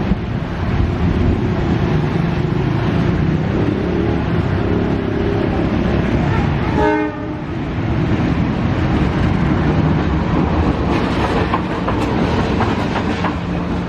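A train passing close by: a heavy, steady rumble of the locomotive and wagons running on the rails, with a brief pitched tone about halfway through.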